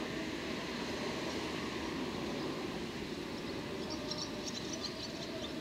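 Freight train of flat wagons loaded with rails rolling away over the tracks: a steady rumble of wheels on rail. Short high-pitched chirps come in from about four seconds in.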